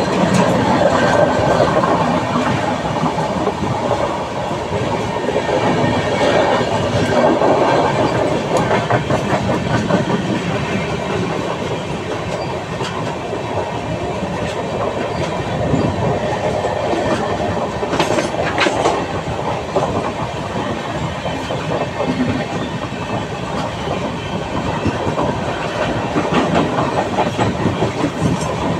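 Train running along the track, its wheels clattering steadily over the rail joints, with a brief sharper clank about two-thirds of the way through.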